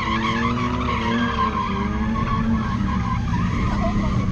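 Car tyres squealing in a long, wavering screech as a car slides and spins its wheels, over a steady low rumble.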